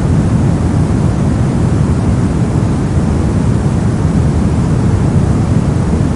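Steady soft noise, a continuous even rush weighted toward the low end and unchanging throughout.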